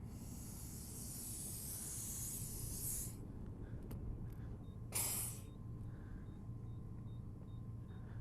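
Air hissing from an air pump's hose chuck at a motorcycle tyre's valve stem for about three seconds, then a second short hiss about five seconds in; the chuck is not seating on the valve.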